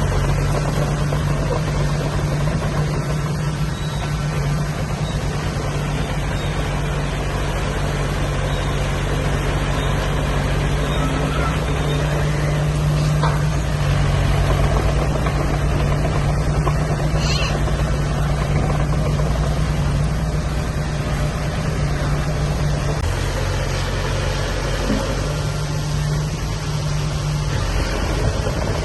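Heavy construction-machine diesel engine running steadily with a low hum, its engine note shifting slightly about two-thirds of the way through.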